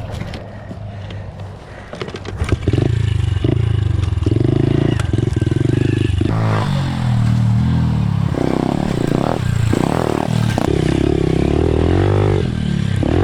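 Pit bike engine that comes in loudly about two and a half seconds in, runs steadily for a few seconds, then revs up and down again and again.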